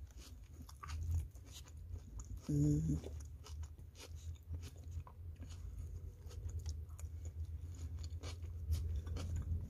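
Close chewing of a soft chicken taco, with many small wet mouth clicks, and a brief hummed "mm" about two and a half seconds in.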